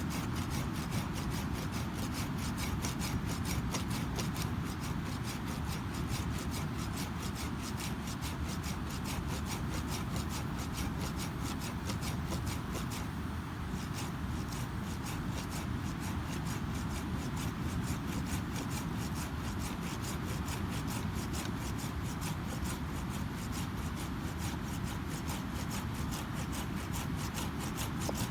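Wood campfire crackling with many small pops and snaps, over a steady low rumble of ocean surf.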